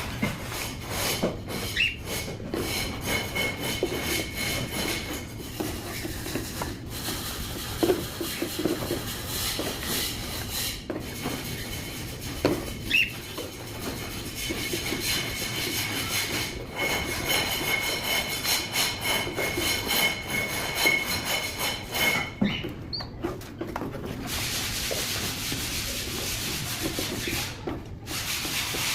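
Scraping and rubbing at a birdcage as it is scrubbed clean, in irregular strokes.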